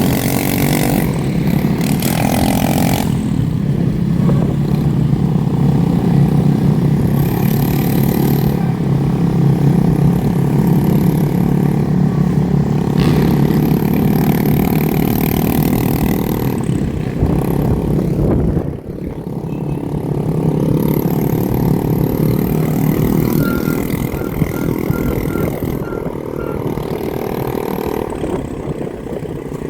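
Motorbike and dirt bike engines running steadily, with occasional revving, a brief lull about two-thirds of the way through.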